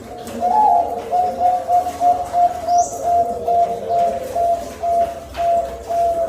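Zebra dove (perkutut) cooing: a long, rapid run of short coo notes, two or three a second. A brief high rising chirp sounds near the middle.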